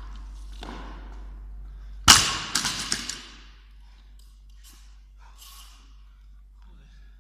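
A loaded 20 kg barbell dropped to the floor about two seconds in: one sharp crash followed by a few quick bouncing knocks and rattle of the plates. Heavy breathing from the exerting athlete before and after.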